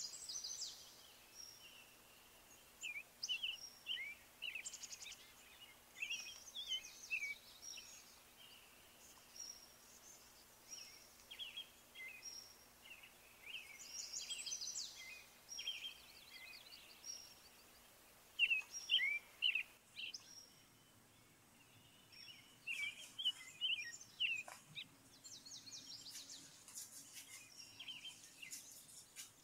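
Small birds chirping and twittering in bursts of short, quick calls.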